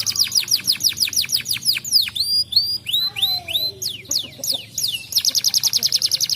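Domestic canary singing: rapid trills of repeated high, falling notes, breaking into slower swooping and rising notes in the middle, then a fast, even trill again about five seconds in.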